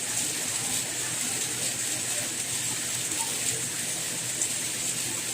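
Steady rain, an even hiss with scattered small drop ticks and no change in level.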